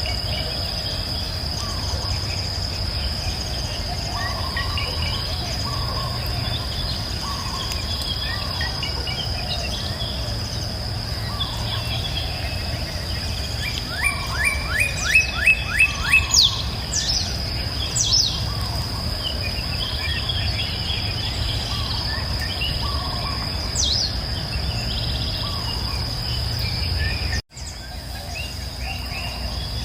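Birds chirping and singing over a steady high-pitched insect drone and a low steady rush of river water. Midway one bird gives a loud run of about seven quick repeated notes. Near the end the sound drops out for an instant and comes back.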